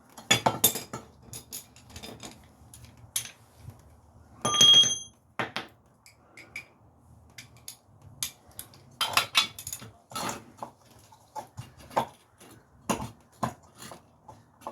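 Metal tools and parts clinking and knocking while being handled, with one loud ringing metallic clang about four and a half seconds in.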